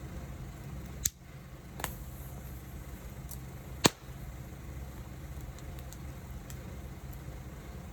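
Wood fire burning with a low steady rush, broken by three sharp crackling pops, the loudest about four seconds in.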